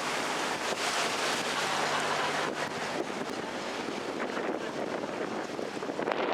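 Wind buffeting the microphone over the steady noise of an open canal tour boat moving through the water, with a faint low motor hum for a second or two.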